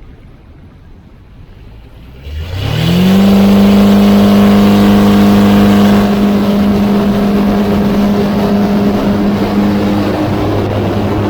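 Rans S7-S Courier light aircraft engine opened up from near idle about two seconds in, its note rising in pitch over about a second, then running loud and steady under power, easing off slightly partway through.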